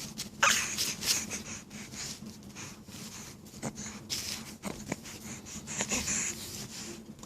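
Excited baby making repeated breathy huffs and wheezes, with a few short squeaky sounds.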